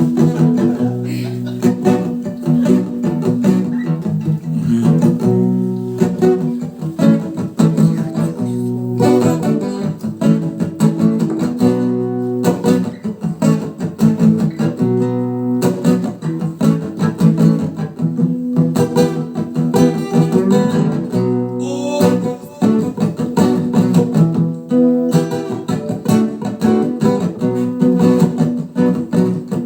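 Guitar strumming chords in a steady rhythm, the chords changing every couple of seconds: the instrumental intro of a rock song.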